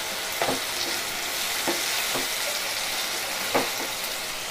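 Chopped onions, tomatoes and green chillies with ginger-garlic paste sizzling steadily in hot oil in a nonstick wok while being stirred with a slotted spatula, which gives a few light knocks against the pan.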